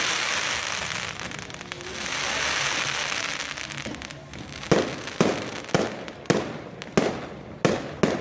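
Fireworks going off: a dense crackling hiss for the first half, then a fast run of sharp bangs, about two a second, like a fireworks battery firing shot after shot.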